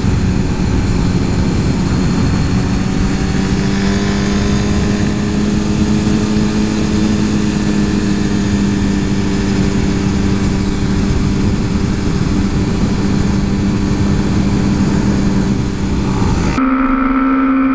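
Suzuki GSX-R 1000 inline-four engine running under way at a fairly steady pitch, with rushing air noise over it. Near the end the sound briefly turns thin and muffled.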